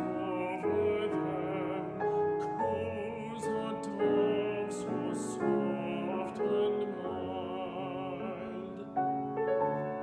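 A classical singer with vibrato, accompanied by piano, performing a Christmas carol or art song.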